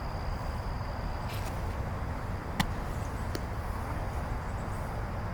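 Steady low wind rumble on the microphone with a faint, steady high insect buzz, and one sharp smack about two and a half seconds in, with a fainter tick shortly after.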